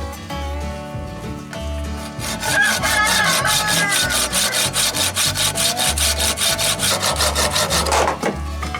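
Saw cutting through a piece of very hard wood in fast, even strokes, starting about two seconds in and stopping near the end, over background music.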